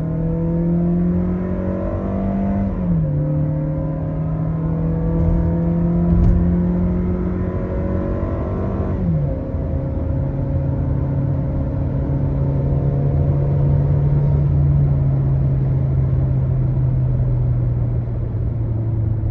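2019 Toyota Innova's 2.0-litre engine under hard acceleration. Its note climbs, drops with upshifts about 3 and 9 seconds in, then runs nearly steady in the higher gear.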